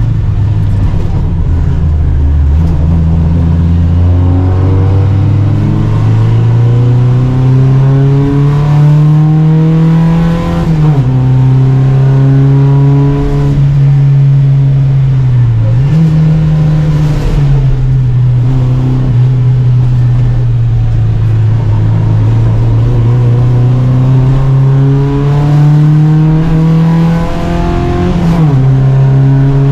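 Volvo Amazon 121 race car's four-cylinder engine under hard acceleration, its pitch climbing slowly through each gear. The pitch drops sharply at upshifts about ten seconds in and near the end, with a brief lift and pick-up in between.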